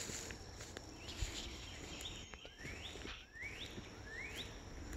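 A bird calling outdoors: a run of about six short rising whistles, spaced unevenly, over a faint background hiss with a few soft footfall-like knocks.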